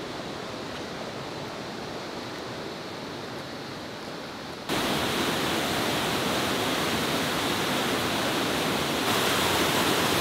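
Small river waterfall rushing: a steady wash of falling water that jumps suddenly louder about halfway through and again near the end.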